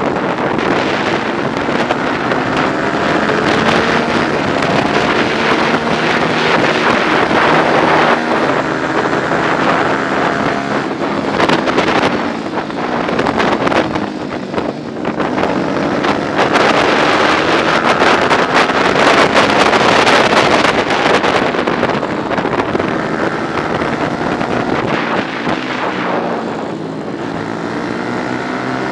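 125 cc four-stroke race motorcycle engine at racing speed. The revs climb and fall again and again through gear changes and braking for corners, with wind noise on the onboard microphone.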